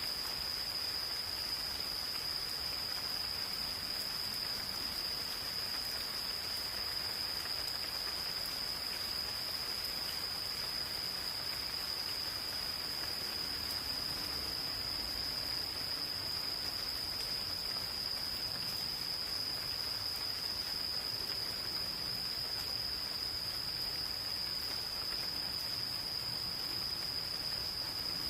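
Insects calling in one continuous, unbroken high-pitched trill, over the steady hiss of light rain falling in a forest.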